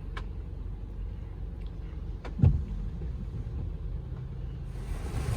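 Low, steady rumble of a car heard from inside the cabin, with a faint click just after the start and one dull thump about halfway through. Near the end a steady hiss of noise swells up.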